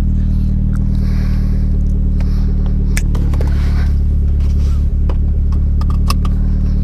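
Mitsubishi Lancer Evolution X's turbocharged 2.0-litre inline-four idling steadily, heard from the cabin, with small clicks and rustles over it. The engine is logging a random multiple-cylinder misfire, which the owner puts down to the spark plugs.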